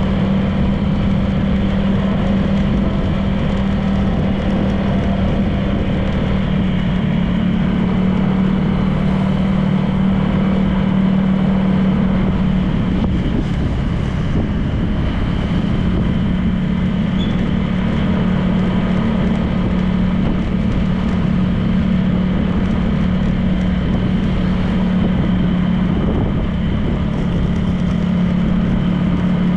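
Honda PCX 160 scooter's single-cylinder engine running at a steady cruise, its pitch holding nearly constant, with wind and road noise.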